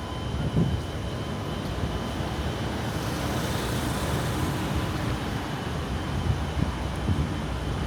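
Steady low rumbling background noise with a faint, steady high tone running through it.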